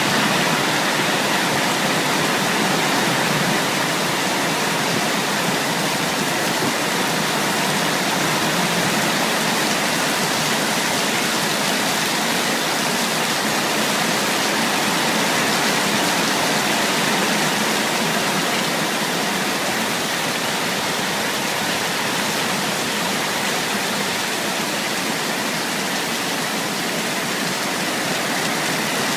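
Heavy rain falling steadily, a dense, even hiss that holds without a break.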